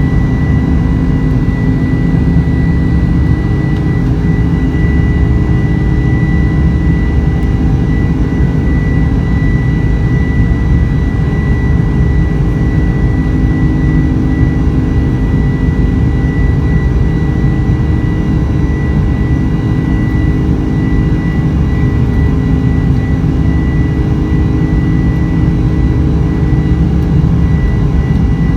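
Boeing 747-400 cabin noise while climbing out after takeoff: the steady roar of the four turbofan engines and the rushing airflow, with a thin steady high whine above it.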